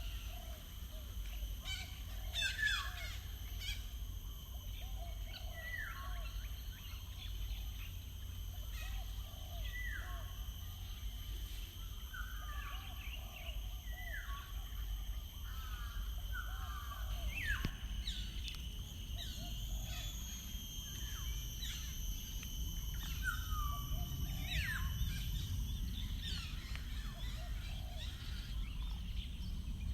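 Wild birds singing and calling: short notes that drop in pitch repeat every second or two over lower warbling calls, with a steady low rumble underneath.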